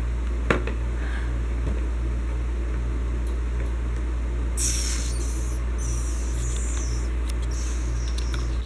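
A steady low hum with a faint regular throb, a sharp click about half a second in, and brief rustling near the middle.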